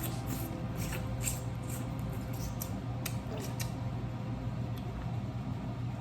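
Eating steamed blue crabs: scattered small sharp cracks and clicks of crab shell being broken and picked, with mouth sounds, over a steady low hum.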